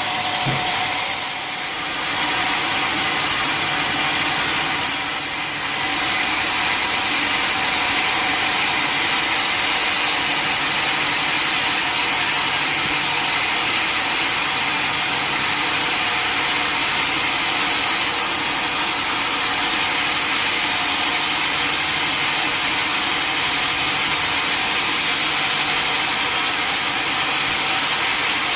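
A sawmill saw cutting through a log, with a steady engine or motor drone under it. The sound dips briefly twice in the first few seconds, then runs evenly.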